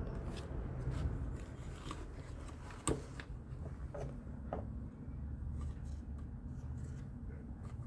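Light handling noise from work on a fan motor: a few small clicks and taps, the sharpest about three seconds in, over a low steady rumble.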